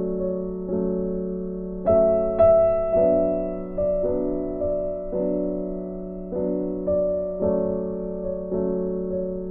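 Soft, slow piano music: gentle chords and notes struck about once a second, each left to fade.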